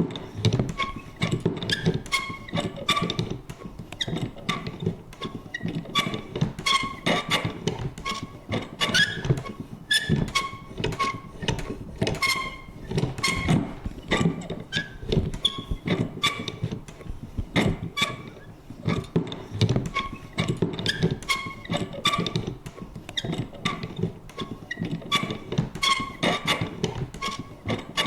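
Vintage paper punch worked over and over: a run of sharp clicks, a few each second, with short squeaky creaks from its mechanism.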